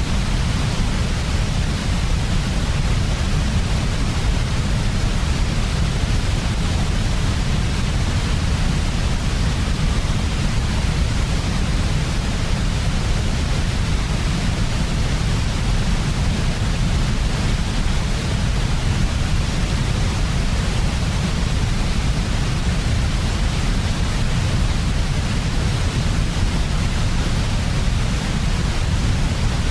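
Steady electronic sleep noise of the white-noise kind used to settle babies, an unbroken hiss weighted toward a deep low rumble.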